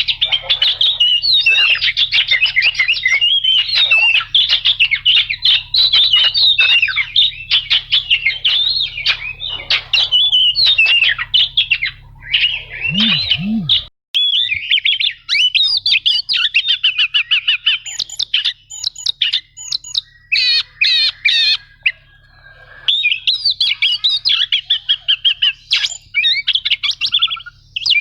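Oriental magpie-robin (kacer) singing a fast, varied song of chattering and rolling phrases without a break. A low electrical hum runs under the first half of the song and stops abruptly about halfway, where the recording is spliced.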